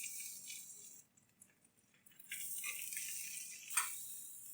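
Slices of firm tofu frying in oil in a pan: a faint sizzling hiss with small crackles, breaking off for about a second near the middle.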